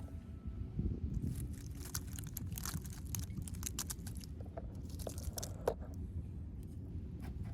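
Irregular crunching and crackling, many short sharp noises at uneven intervals, over a steady low rumble.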